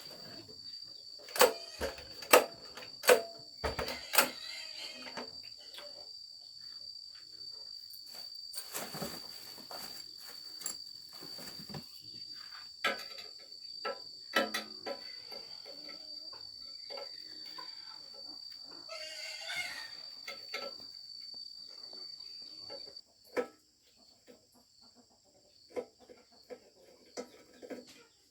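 Sharp metallic knocks and clanks of repair work on a pump engine, four loud ones in the first few seconds, with scraping stretches and small clicks after. Under them runs a steady high insect drone that cuts off abruptly about 23 seconds in.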